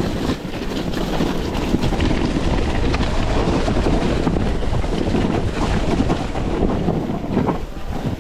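Wind rushing and buffeting over an action camera's microphone while moving fast: a steady loud rushing with a heavy low rumble.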